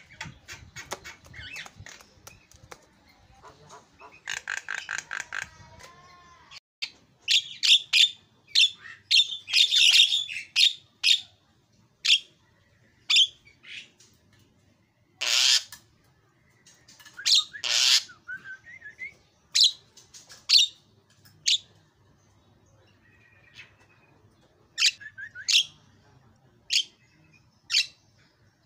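Javan myna calling: a buzzy, rapidly pulsed rattle, then loud sharp squawks and short whistled notes in irregular bursts, with two harsh screeches around the middle.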